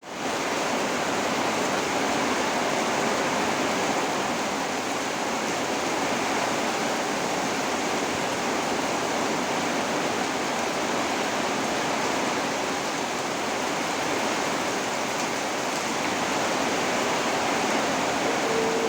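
Heavy tropical rain pouring down in a steady, dense hiss, with no let-up.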